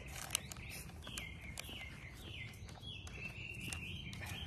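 A bird calling over and over in a run of short notes that each slide downward, with a few sharp crinkles of a plastic snack packet being handled.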